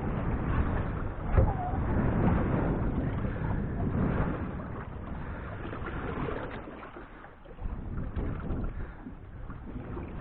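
Wind buffeting the microphone in gusts, over water sounds at the boat, with one sharp knock about a second and a half in.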